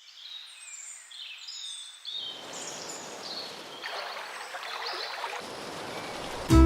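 Birds chirping in short, high calls, joined about two seconds in by a steady rushing hiss like flowing water; music starts right at the end.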